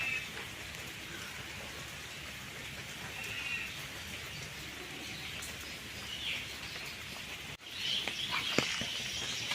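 Scattered bird chirps over a steady background hiss. Near the end the sound cuts and comes back louder, with a denser chorus of bird calls and a few sharp clicks.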